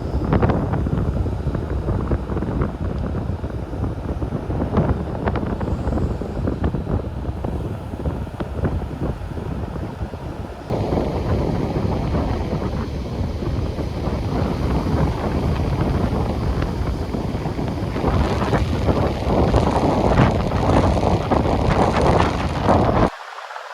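Strong wind buffeting the microphone, with Baltic Sea surf beneath it. The noise is loud and gusty, jumps in level about halfway through, and cuts off sharply near the end.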